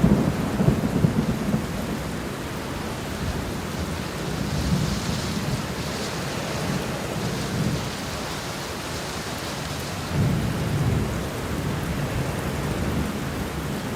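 Steady rain with low rolling thunder rumbling under it, swelling at the start and again about ten seconds in.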